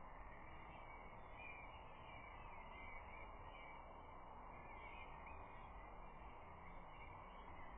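Faint wild birdsong, short wavering chirps and calls from distant birds, over a steady low hiss of background noise at a nest camera's outdoor microphone.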